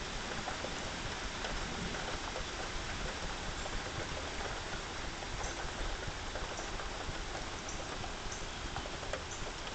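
Steady rain in a thunderstorm: an even hiss with scattered sharp ticks of drops landing close by, the ticks more frequent in the second half.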